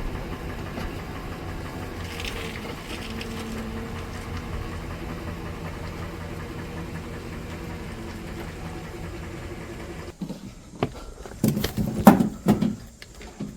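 A vehicle engine running steadily at low speed, cutting off suddenly about ten seconds in, followed by a few clunks and knocks.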